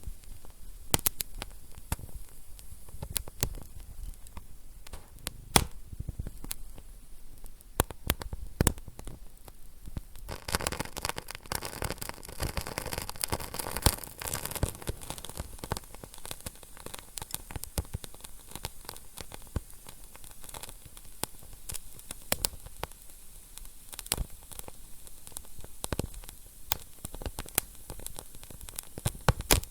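Wood fire in a fireplace crackling, with frequent sharp pops over a low hiss. The hiss swells louder about ten seconds in and settles again a few seconds later.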